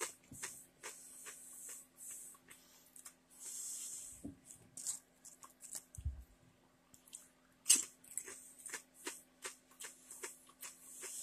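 A person chewing hard kettle-cooked potato chips: irregular crisp crunches and cracks, the sharpest about three-quarters of the way through, over a faint steady hum.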